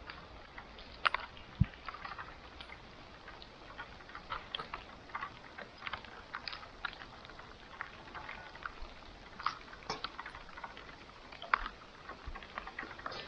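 Wood campfire crackling: irregular small pops and snaps over a faint steady hiss, with a few sharper pops, the loudest about a second in and near the end.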